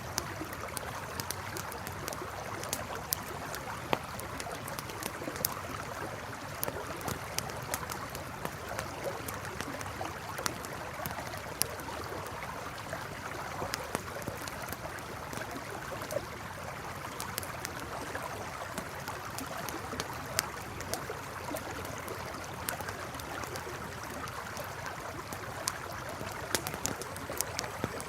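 Campfire crackling with irregular sharp pops over the steady rush of a flowing river.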